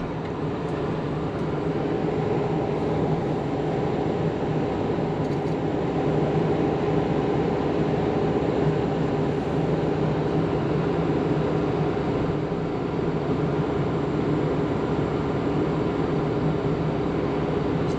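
PistenBully snowcat's diesel engine running steadily under load while pushing another snowcat with its blade.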